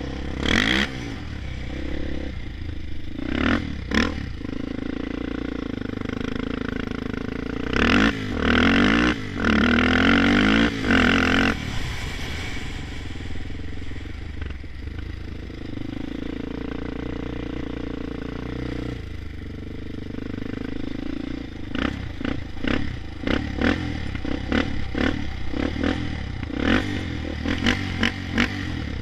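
Honda 400EX ATV's single-cylinder four-stroke engine running with a steady drone, revving hard in short bursts about eight seconds in and again around ten to eleven seconds. Near the end it gives a quick stuttering run of short blips.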